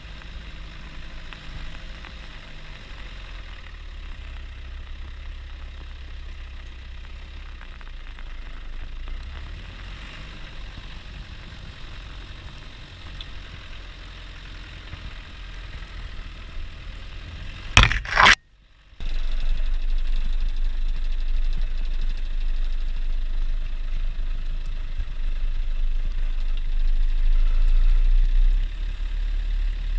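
Land Rover Defender 90's engine running with a steady low drone. About eighteen seconds in there is a short loud crackle and a moment's silence, after which the engine sounds louder.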